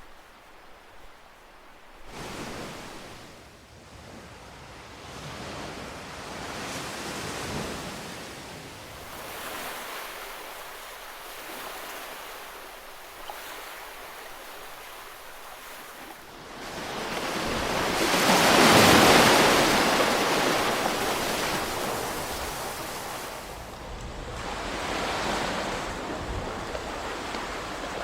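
Ocean waves breaking and washing on the shore, swelling and easing one after another, with the biggest wave crashing about two-thirds of the way through.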